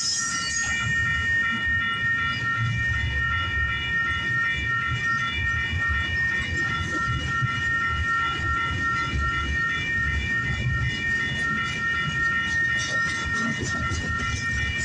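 Intermodal freight cars rolling past with a steady low rumble of wheels on rail. Over it runs a continuous high ringing tone that pulses slightly, and a few faint wheel clicks come near the end.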